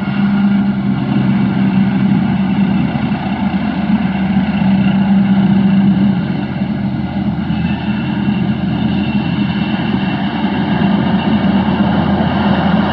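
Tractor engine running steadily at a constant pitch during hay field work, with a slight dip in level about six seconds in.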